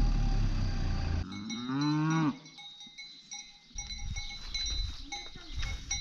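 An engine runs for about the first second, then cuts off abruptly. A cow gives one moo, rising and then falling in pitch. After that, a cowbell rings on and off.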